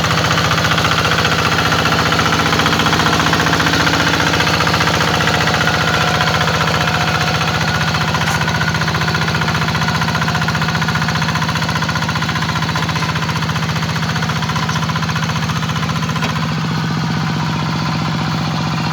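Hand tractor's single-cylinder diesel engine running steadily with a rapid, even knock.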